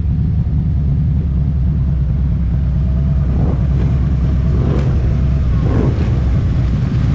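Harley-Davidson Street Glide CVO's Milwaukee-Eight 117 V-twin running steadily under way, a loud, deep, even rumble through Krome Werks Aggressor headers and a CFR double-fluted exhaust.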